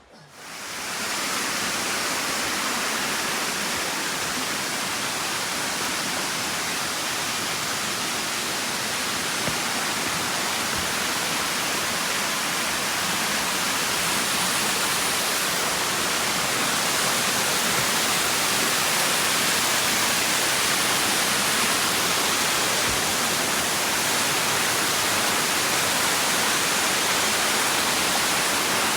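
Waterfall (Apple Orchard Falls) rushing with a loud, steady roar of falling water. It comes in quickly at the start and grows slightly louder.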